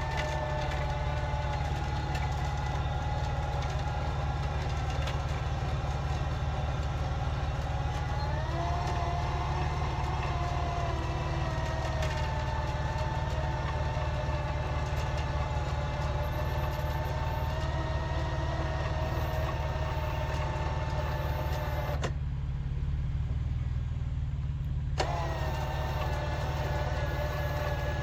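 A truck engine running steadily under the whine of a winch motor pulling. The whine rises in pitch about a third of the way in, cuts out for about three seconds near the end, then starts again.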